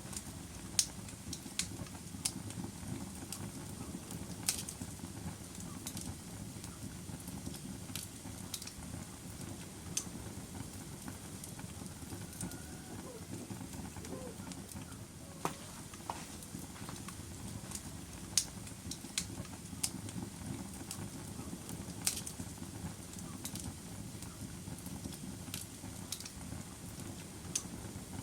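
Log fire crackling: sharp, irregular pops and snaps over a steady low rumble of burning wood.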